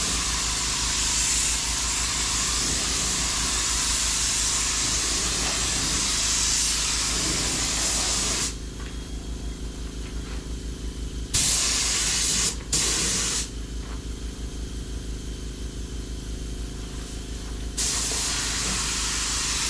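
Air spray gun hissing as it sprays single-stage paint, the trigger held for long passes. The hiss cuts off about eight seconds in, comes back for a second, gives one short burst, stops again for a few seconds, then resumes near the end. A steady low, rapidly pulsing machine hum runs underneath.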